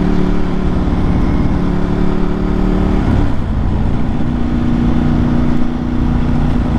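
Ducati 1098's 1099 cc L-twin engine running under way on a moving motorcycle. The note dips about three seconds in, then holds steady.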